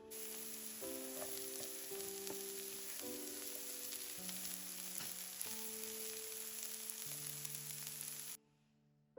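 Food sizzling in hot oil in a frying pan, a steady hiss that cuts off suddenly near the end, over soft background music with held piano-like notes.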